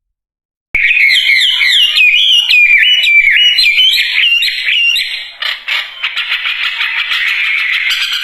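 Wambi songbird singing loudly: a quick run of sweeping whistled notes, turning into a denser, faster chatter about halfway through. The song cuts in abruptly from silence about a second in.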